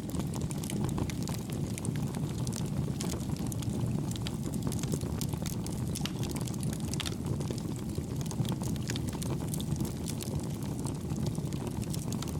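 Campfire burning: a steady low rumble of the flames with many small, soft crackles scattered through it.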